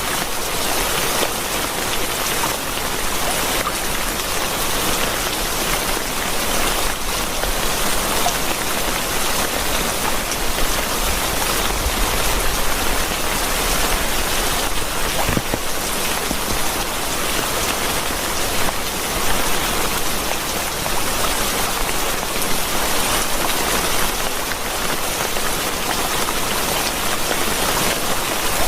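Steady heavy rain, an even hiss of water with many individual drops striking a surface.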